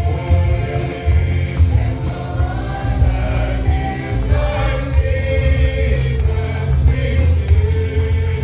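Gospel choir and congregation singing with a heavy bass accompaniment.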